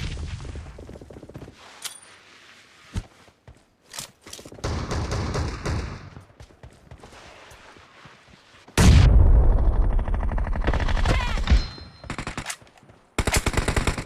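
Gunfire in a first-person shooter video game: a few scattered single shots, then a loud, dense stretch of firing lasting about three seconds, and near the end a rapid, even burst of automatic fire.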